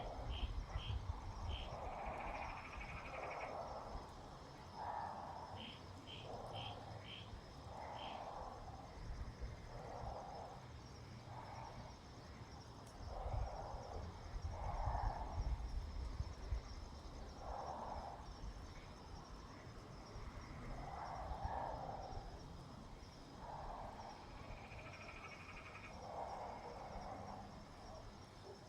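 Evening outdoor animal sounds: soft rasping calls repeat every second or two over a steady high insect trill, with two quick runs of short high chirps early on and about a third of the way through.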